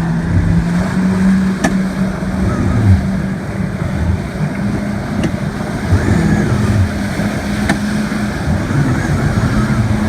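Motorboat engine running steadily at an even pitch, with rushing wind and water noise.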